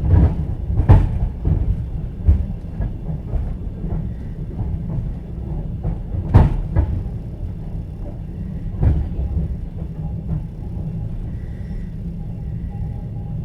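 Clatter of train wheels heard from inside a moving platskart sleeper carriage: a steady low rumble with sharp knocks as the wheels cross rail joints, the loudest about six seconds in. A faint thin tone joins in near the end.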